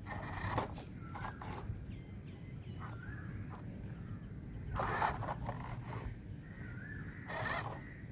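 Birds calling outdoors: a handful of short harsh calls, two of them longer and louder about five and seven and a half seconds in, with a few small rising chirps between them.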